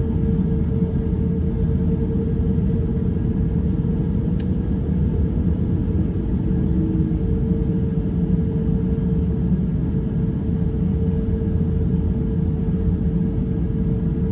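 Airbus A350-900 cabin noise: a steady low drone from the Rolls-Royce Trent XWB engines and airflow, with a constant hum running through it.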